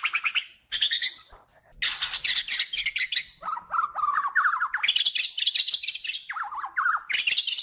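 A bird singing in a run of quick trilled phrases, each a fast string of short notes. The phrases switch between a lower pitch and higher, rising ones.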